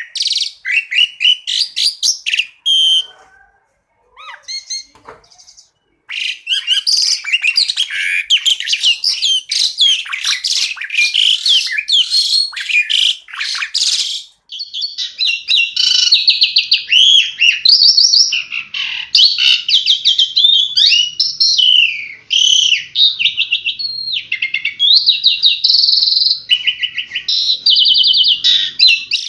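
Asian pied starling (jalak suren) singing a long, varied song of fast chattering phrases and quick trills. There is a near-quiet lull of about two seconds a few seconds in. The second half is varied whistles, rising and falling notes, and rapid runs of repeated notes.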